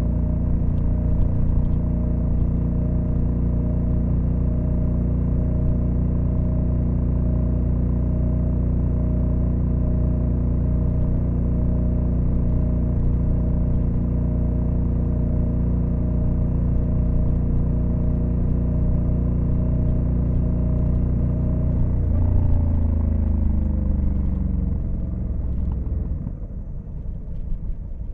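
2022 Honda Africa Twin CRF1100L's parallel-twin engine running at steady revs under way. About three-quarters through the revs fall as the bike slows, drop lower still near the end, and begin to rise again at the very end.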